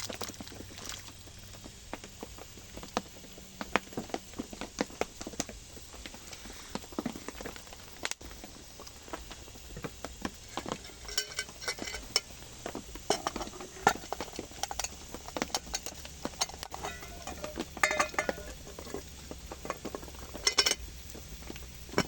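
Metal camp cookware and utensils clinking and scraping, with many small irregular clicks and a few brighter ringing clinks in the second half, over a steady low hum.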